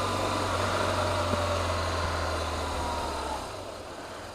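BMW motorcycle engine running slowly at low revs, then stopping abruptly about three and a half seconds in.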